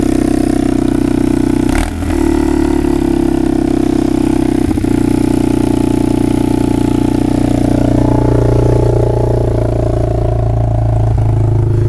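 Yamaha Timberwolf ATV's single-cylinder four-stroke engine idling cold shortly after a cold start by hand. There is a sharp click about two seconds in, and the idle speed wavers in the second half as the cold engine threatens to stall.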